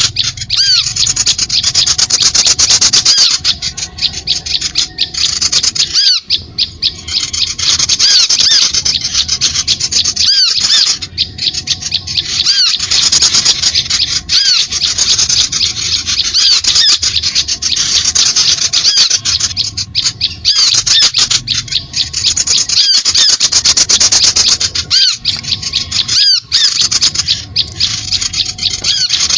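Bird-lure recording: a dense chorus of small birds chirping and chattering rapidly and loudly, high-pitched, in stretches of a few seconds broken by short pauses.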